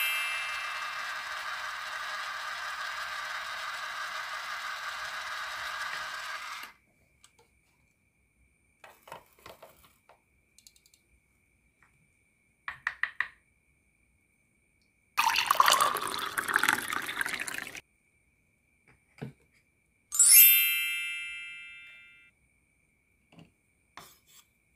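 Small motor of a toy electric hand mixer whirring steadily, cutting off about seven seconds in. A few light plastic clicks follow, then liquid pouring for a couple of seconds, and a ringing chime that fades over about two seconds.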